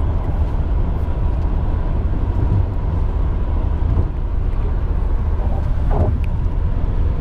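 Steady low rumble of a vehicle in motion, with a faint steady tone above it.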